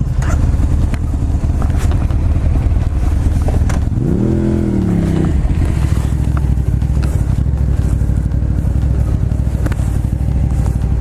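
Motorcycle ridden at speed, heard from on board: a steady engine rumble under heavy wind rush, with one engine note climbing and falling back about four seconds in.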